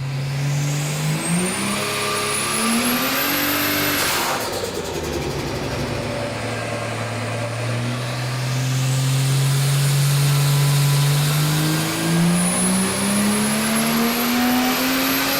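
Ford Barra turbocharged 4.0-litre straight-six accelerating hard: the engine note climbs, breaks off briefly about four seconds in at a gear change, then climbs again in a long pull, with a high turbo whistle rising alongside each pull.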